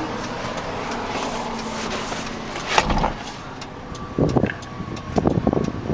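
2002 Jeep Liberty's 3.7-liter V6 idling steadily, with a single thump about three seconds in, after which the engine sound gets quieter. Short irregular scuffing noises follow near the end.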